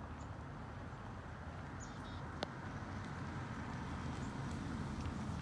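A few faint, short, high chirps from small birds, with one sharp click about two and a half seconds in, over a steady low rumble of wind and handling noise.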